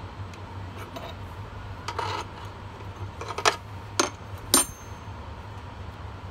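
Metal clinking as a hydraulic hose with metal end fittings is handled in the wheelchair lift's frame. There is a short rustle, then three sharp clinks about half a second apart, the last one ringing briefly, over a steady low hum.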